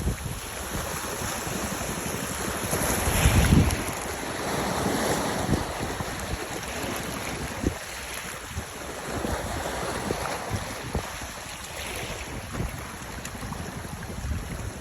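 Wind buffeting the microphone over the steady wash of sea waves, with a strong gust about three seconds in.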